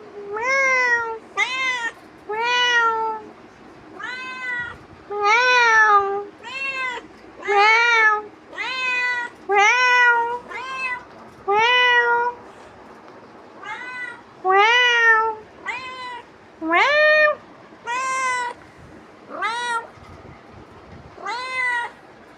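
Domestic cat meowing over and over, about one meow a second, each call rising then falling in pitch, a few sharper and rising near the end.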